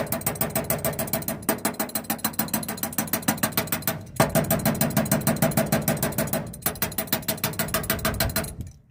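Rapid metal-on-metal hammer taps on a starter solenoid that will not pass current, about eight ringing knocks a second in four bouts, a 'technical tap' to free the stuck solenoid.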